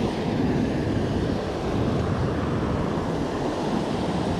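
Steady rushing of creek water pouring over a small waterfall, an even noise with no breaks.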